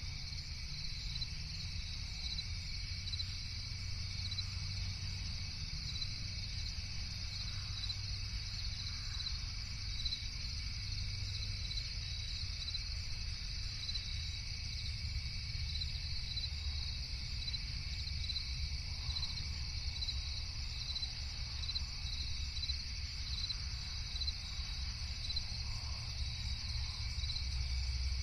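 Crickets chirping in a night forest: a continuous high trill with evenly repeating chirps, over a steady low rumble.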